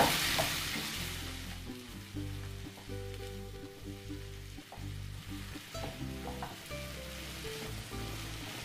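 Onions, tomatoes and cashews frying in butter and oil in a pan, sizzling softly as they are stirred. Soft background music with held notes plays over it.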